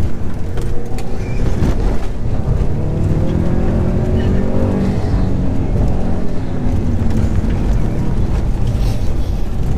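Car engine under hard driving heard from inside the cabin, its note climbing and easing off over a few seconds, with loud road and tyre noise and scattered short knocks.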